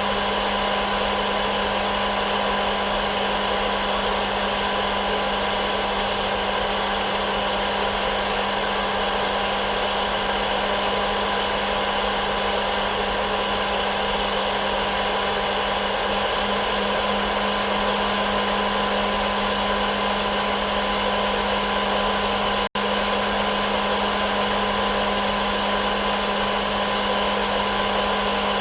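Electric hair dryer running steadily: an even blowing rush with a constant low hum and a whine, played as a white-noise loop for sleep. It cuts out for an instant about three quarters of the way through.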